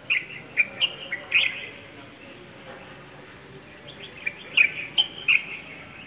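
Small birds chirping: a quick run of short, sharp chirps in the first second and a half, then another run about four seconds in.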